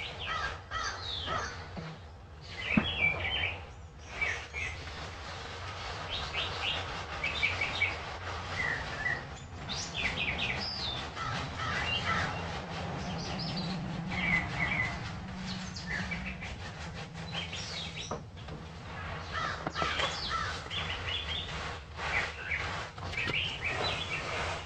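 Many birds calling loudly at once: a dense, continuous run of short chirps and calls, over a steady hiss.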